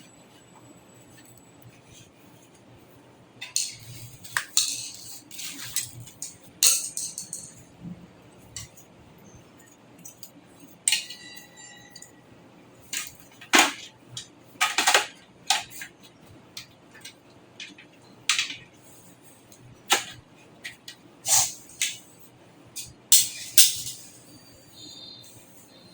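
Irregular metallic clicks, clinks and scrapes from handling the sheet-metal parts and screws of a desktop computer case, with one brief ringing note partway through.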